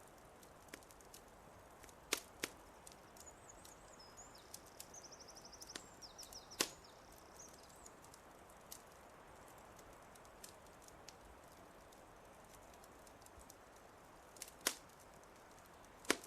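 Wood fire crackling, with many small ticks and a few sharp pops, the loudest about 2, 6, 14 and 16 seconds in, over a soft steady hiss. A small bird chirps in a quick high trill for a few seconds early on.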